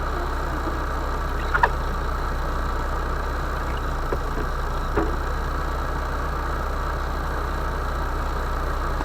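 Vehicle engine idling steadily, with a few short knocks or clicks about a second and a half in and again around four to five seconds in.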